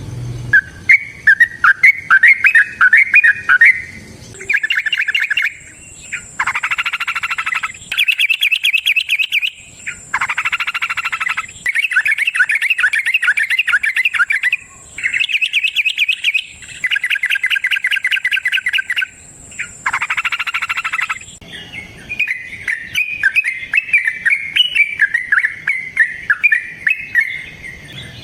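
Yellow-vented bulbul (trucukan) singing: scattered chattering notes, then a run of long, rapid trilled phrases of one to three seconds each with short gaps, then chattering again from about three-quarters of the way in.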